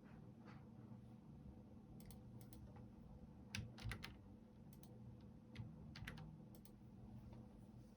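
Sparse keystrokes on a computer keyboard: scattered single taps, with a short cluster of louder ones about four seconds in, over a faint steady hum.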